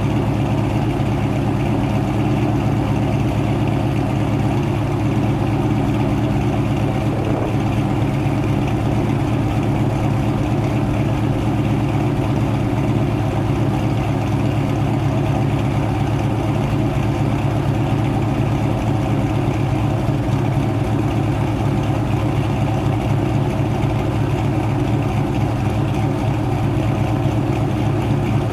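Ford Mustang GT's 4.6-litre two-valve V8 with aftermarket cams, headers, X-pipe and SLP LoudMouth exhaust, idling steadily after a cold start.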